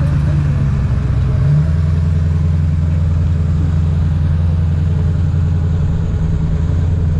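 A vehicle engine running steadily at idle, its low note shifting slightly about a second and a half in.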